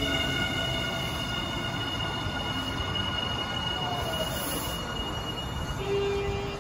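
Nankai 8000 series electric train rolling slowly into the platform and drawing to a stop: a low running rumble with a steady high-pitched whine that stops near the end, when a lower steady tone takes over.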